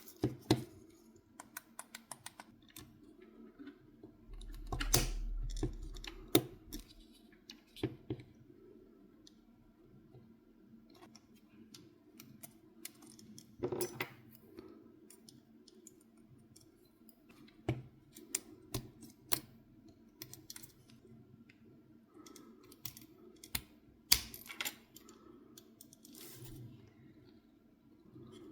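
Scattered clicks and light knocks of small hard parts being handled and fitted by hand, with a heavier low thump about five seconds in.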